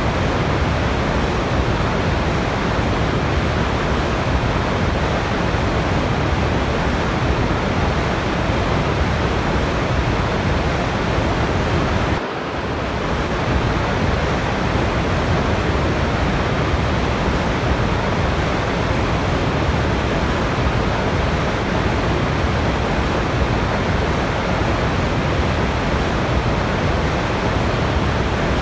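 Steady, even rush of a waterfall's falling water, used as white noise, with a brief dip in level about twelve seconds in.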